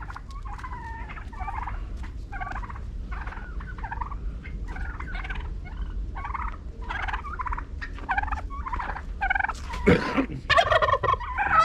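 Domestic turkeys gobbling in a long run of short warbling calls. The calls grow louder and crowd together in the last couple of seconds, with a sharp louder call just before that.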